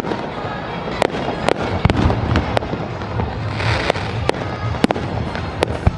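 Fireworks shells bursting overhead: a dozen or so sharp bangs at irregular intervals, with a hissing crackle about three and a half seconds in.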